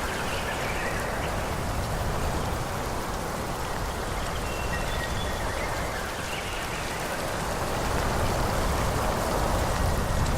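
Wind rushing through forest trees: a steady leafy hiss over a low rumble, swelling slightly near the end.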